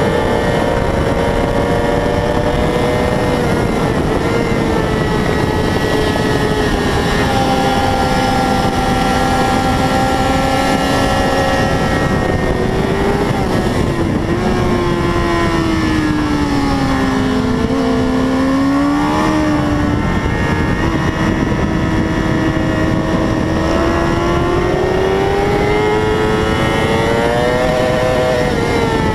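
600cc racing motorcycle engine at race pace, its note rising and falling through gear changes. It drops low a little past the middle and climbs back up near the end, over a steady rush of wind noise.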